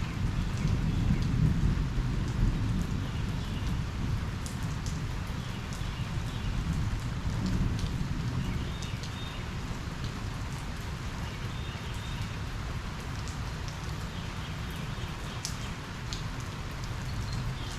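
Steady rain falling and pattering on surfaces, with a low rumble of thunder that is strongest in the first few seconds and slowly eases off.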